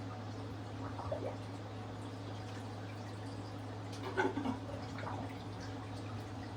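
Aquarium water-change system running: water trickling and dripping over a steady low hum, with brief splashy sounds about a second in and about four seconds in.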